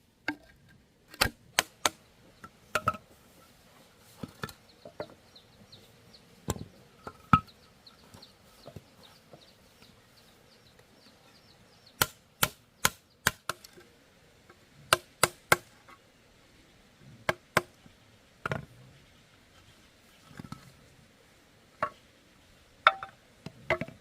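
Bamboo being chopped with a blade: sharp, crisp strikes in irregular groups of two to four, with pauses of a few seconds between the groups.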